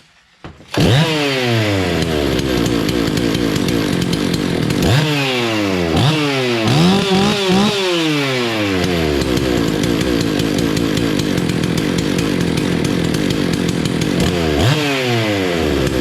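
A Husqvarna 288 XP two-stroke chainsaw catches about a second in and runs, revving up and falling back several times between steadier running. It runs cleanly, with its fuel system freshly repaired.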